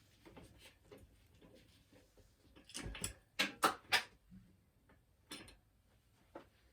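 Metal hand tools clinking and clicking on bicycle hub parts: a few light clicks, then a quick run of three or four sharp clinks about halfway through, and two more after.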